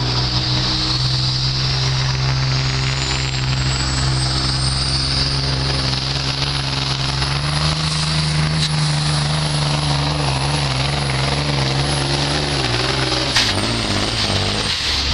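Heavy diesel truck engine running hard under load while pulling a weight sled. A high whistle climbs over the first several seconds and then holds. The engine note steps up about halfway through and falls away near the end, with a sharp click just before the engine drops off.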